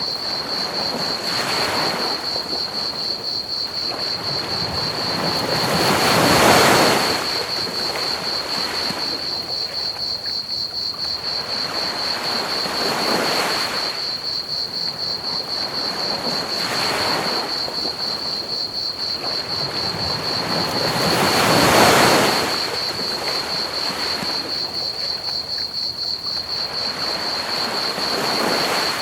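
Ocean waves washing onto a beach, swelling and falling every few seconds, with two larger breakers, over a soft hiss. Crickets chirp steadily throughout in a fast, even, high trill.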